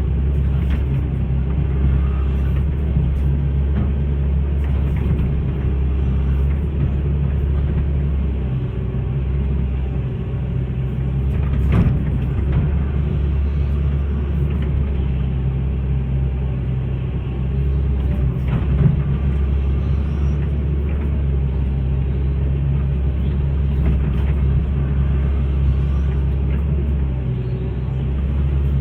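Hitachi hydraulic excavator's diesel engine running steadily under work, with a few knocks, the loudest about twelve seconds in.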